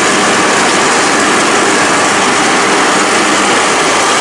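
Riding lawnmower's single-cylinder Briggs & Stratton engine running steadily with the deck engaged, cutting grass.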